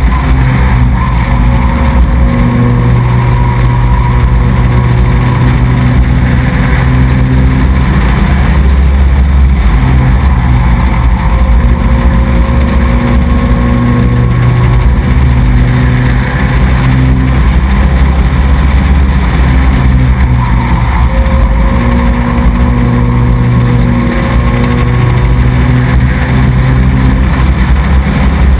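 Racing truck engine running hard and close-up, its pitch rising and falling in a repeating cycle about every ten seconds as the truck speeds up on the straights and eases off through the turns of a short oval.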